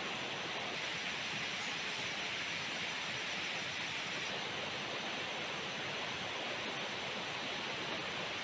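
Heavy rain pouring down as a dense, steady hiss.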